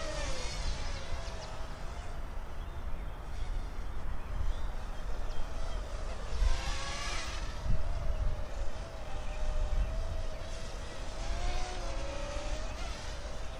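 Parrot Mambo mini quadcopter's propellers whining, the pitch wavering up and down as it manoeuvres, and briefly louder about seven seconds in. Wind rumbles on the microphone.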